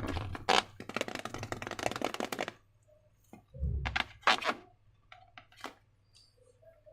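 Sticky slime being worked by hand with balloons: a dense run of crackly clicks for about two and a half seconds, then a dull thump and a few scattered sharp clicks.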